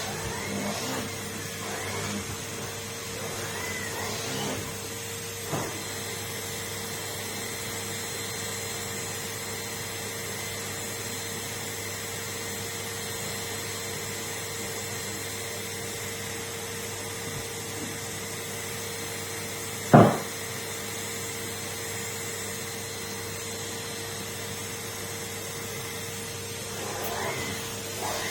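Numatic Henry cylinder vacuum cleaner running steadily with a constant hum. There is one sharp knock about two-thirds of the way through.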